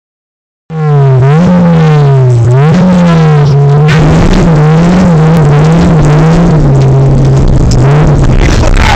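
Suzuki Swift GTI's engine, loud and close, revving hard as the car is driven. Its pitch climbs sharply and falls away again several times. A rushing noise joins from about four seconds in.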